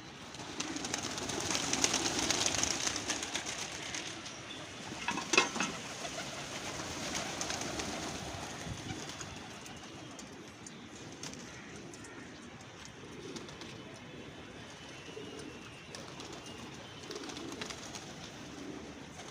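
Domestic pigeons cooing softly. A loud stretch of hissy noise comes in the first few seconds, and a sharp knock about five seconds in.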